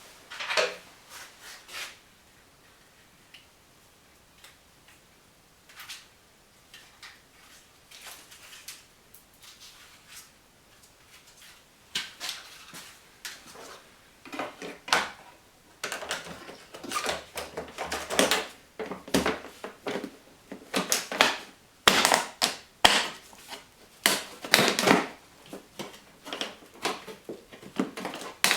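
Hands handling plastic trim and parts at the car's cowl: a run of clicks, taps and scraping knocks, sparse at first, then busy and louder through the second half.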